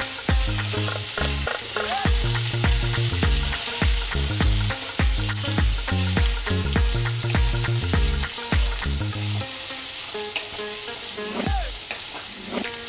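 Onions, green chillies and freshly added tomatoes sizzling in hot oil in a kadai, with a steel ladle stirring and clicking against the pan. A low background music track runs under it and fades out about three quarters of the way through.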